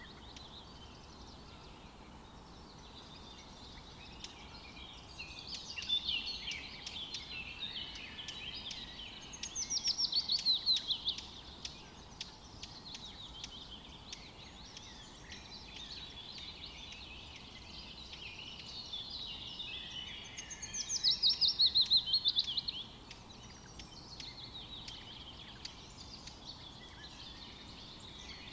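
Songbirds singing and chirping, with two louder rapid trills that fall in pitch, about ten seconds in and again about twenty seconds in.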